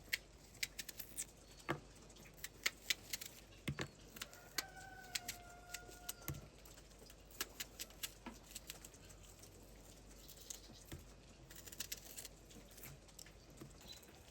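Irregular sharp clicks and taps, with one short steady high-pitched call or tone about a second and a half long near the middle.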